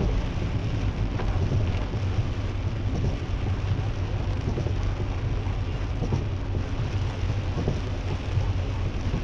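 Heavy rain drumming steadily on a car's roof and windscreen, heard from inside the cabin, over the low steady hum of the car and its tyres on the wet road.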